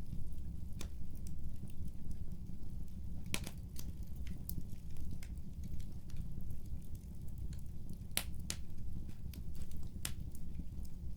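Fireplace crackling: a steady low rumble with scattered sharp snaps and pops, a few louder pops about a third of the way in and again around three-quarters through.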